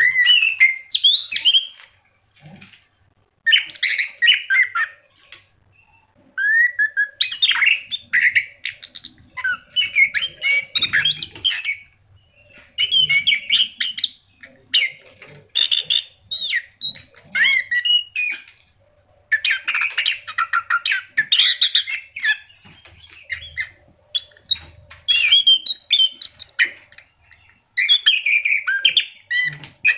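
Orange-headed thrush (anis kembang) singing energetically: long bursts of fast, varied whistled and chattering phrases, broken by short pauses every few seconds.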